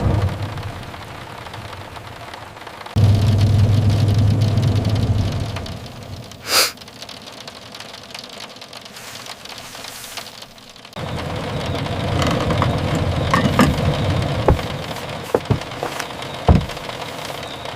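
Rain with a bus engine's low steady hum for a couple of seconds, under soft background music; in the last seconds the rain thickens, with scattered light taps and clicks.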